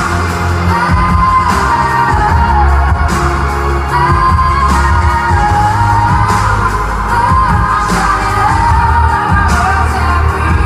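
Live pop song: a woman singing a long, wavering melodic line over heavy bass, with a drum hit about every second and a half.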